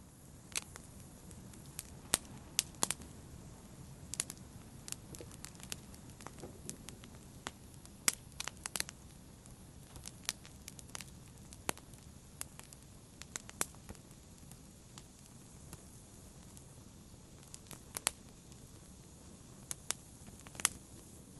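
Wood fire crackling: a low steady hiss with irregular sharp pops and snaps, several clustered together at times.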